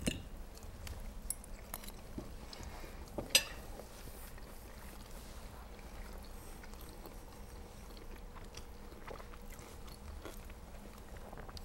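People chewing food quietly, with scattered small clicks and taps and a sharp click about three seconds in, over a steady low hum.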